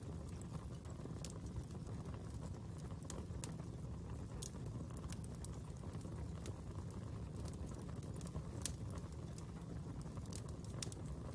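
Fire crackling: irregular sharp pops and snaps over a steady low rumble, with one louder pop about two-thirds of the way through.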